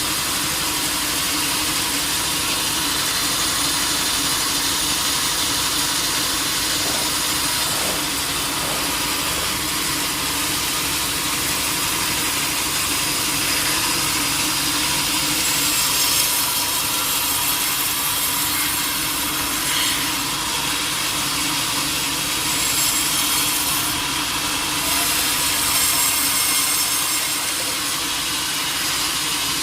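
Sawmill saw cutting through a teak log, a steady grinding hiss over the mill's motor running at an even pitch, the higher hiss shifting a little in the second half.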